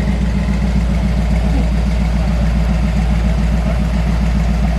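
A car engine idling steadily, a low, evenly pulsing running sound.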